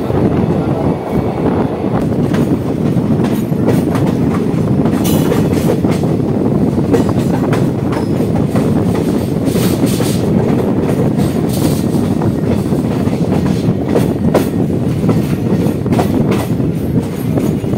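Indian Railways ICF passenger coach running at speed, heard from its open door: a steady loud rumble of wheels on the rails, with irregular sharp clacks as the wheels pass over rail joints and points.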